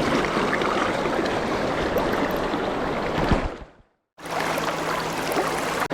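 Steady rush of a fast mountain river flowing over stones. It fades out to silence for a moment about four seconds in, then comes back at the same level.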